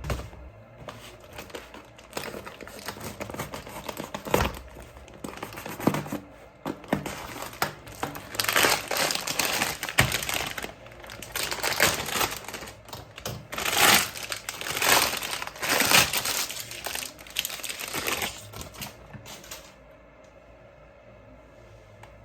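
Packaging being handled and crinkling in irregular bursts as a toy is unboxed, busiest in the middle and dying away near the end.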